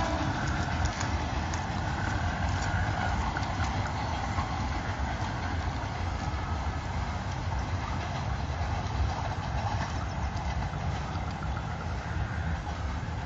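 Mumbai suburban EMU local train running away along the track, its steady rumble slowly fading as it recedes.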